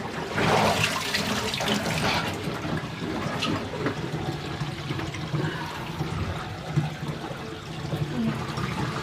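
Water rushing steadily as the Giantex twin-tub washer's wash tub drains out after the rinse.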